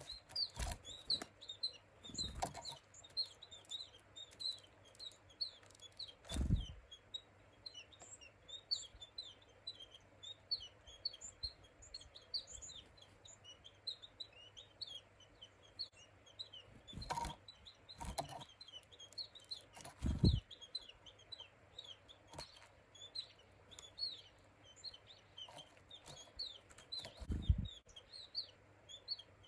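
Small wild songbirds chirping busily with many short high calls. Several dull thumps are scattered through the calls.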